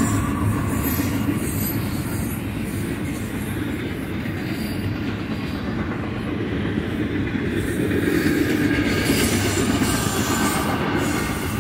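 Double-stack intermodal container train rolling past: a steady rumble of steel wheels on rail from the loaded well cars, swelling slightly about eight seconds in.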